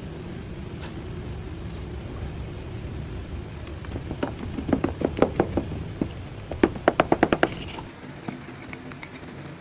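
Sharp knocks and taps of hard objects over a steady low rumble: a scattered group about halfway through, then a quick run of about eight. The rumble drops away near the end.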